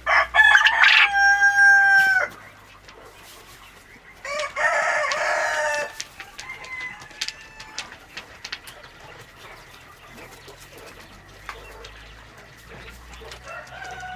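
A rooster crows: a long, loud call held on one pitch that drops off at the end, about two seconds long. About four seconds in, a second loud, rougher call sounds for under two seconds. Softer clucks and small knocks follow.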